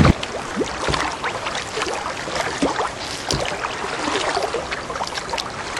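River water trickling and splashing around a kayak, with many small irregular drips and splashes.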